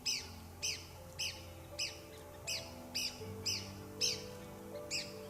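Soft background music of held low notes, over a bird repeating a short, sharp call two or three times a second.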